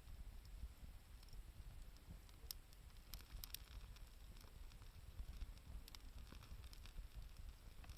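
Wood campfire crackling faintly: scattered sharp pops and snaps, a handful clustered near the middle, over a low rumble.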